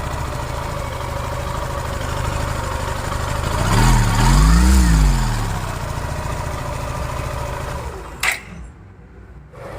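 Suzuki Gixxer SF Fi's single-cylinder engine idling after a top-end rebuild. It is blipped once about four seconds in, the revs rising and falling back to idle. Near the end there is a sharp click, and the sound drops away for about a second before the idle returns.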